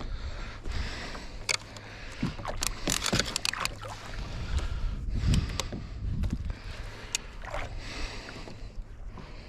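A kayak being paddled on the sea: water swishing and splashing with the paddle strokes, with a few sharp knocks and clicks along the way. A steady low rumble of wind on the microphone runs underneath.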